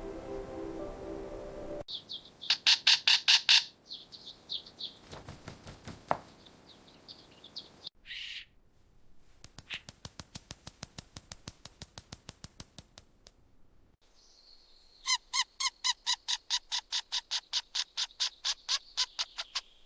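Background music stops about two seconds in. Then a baby chick peeps in rapid runs of short, high, evenly spaced cheeps, with a quieter run of regular ticks in the middle.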